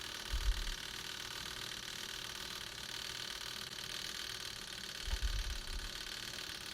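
A mini washing machine's spin-dryer motor, switched on, gives a steady electrical hum but the drum does not spin: a sign of a stalled or faulty spin motor. Two dull low bumps are heard, about half a second in and about five seconds in.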